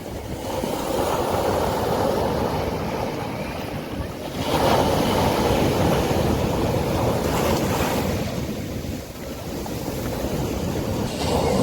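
Sea waves washing onto a beach, swelling in surges about four and a half seconds in and again near the end, with wind rumbling on the microphone.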